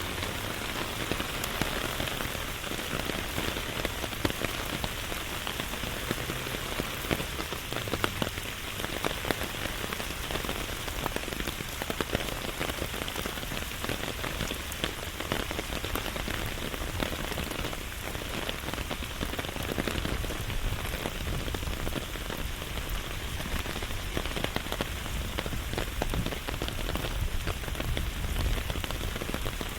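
Steady rain falling, with a constant hiss and many individual drops ticking close by.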